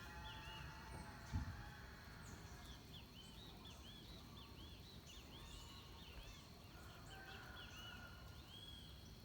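Faint dawn birdsong in Atlantic forest: from about three seconds in, a bird sings a quick run of short, arched, high notes over a steady high hum. A single soft low thump comes about a second and a half in.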